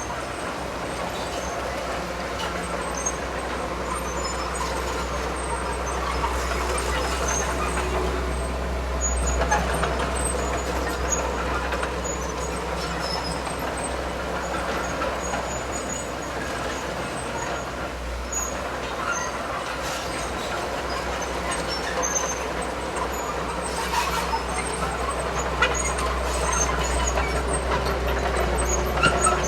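Heavy diesel earthmoving machinery running steadily, a continuous low engine rumble with a few faint clicks and clanks.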